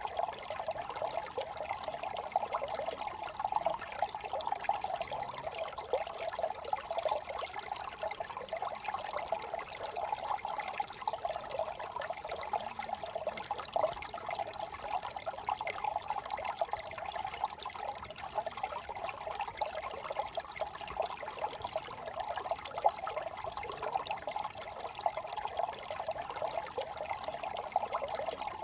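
Small brook trickling and babbling over stones, a steady, bright gurgle of shallow running water.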